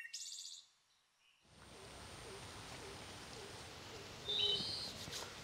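Bird calls over faint outdoor ambience: a few high chirps at the start, then after a short quiet gap a steady hiss with soft, repeated low calls and one louder high bird call about four seconds in.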